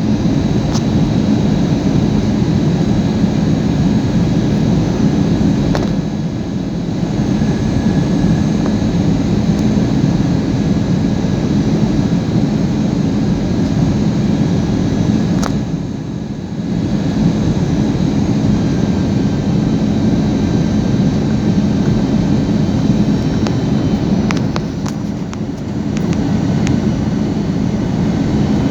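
Airliner cabin noise during the approach to landing: a steady, low engine and airflow noise with faint high whines from the engines. It dips briefly three times.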